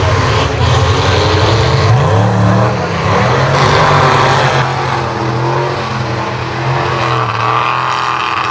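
Mega mud truck engine running loud at high revs, its pitch climbing about two seconds in, then holding steady.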